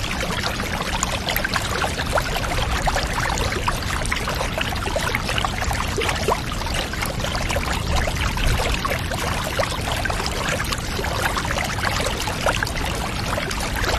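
Water steadily pouring and trickling, a dense patter of small splashes over a low rumble.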